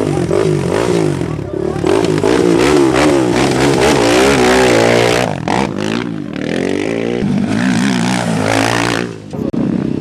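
Off-road race motorcycles revving and passing, their engine pitch rising and falling, with a brief drop in the noise near the end.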